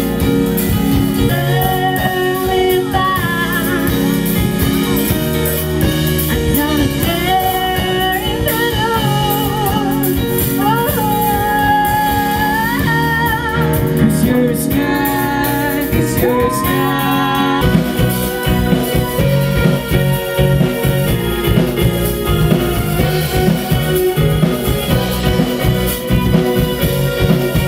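Live rock cover band playing, with a wavering, bending lead melody over bass and drums. The music moves into a new section about eighteen seconds in.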